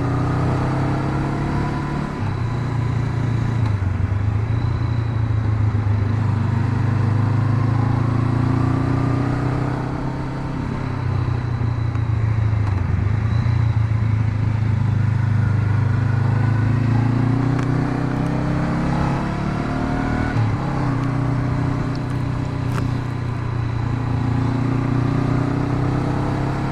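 Honda CB500X's parallel-twin engine running under way. Its pitch rises and falls several times as the rider works the throttle and gears.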